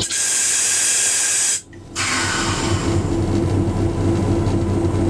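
A loud, high hiss for about a second and a half that cuts off abruptly. It is followed by a steady, low locomotive engine drone with a constant hum.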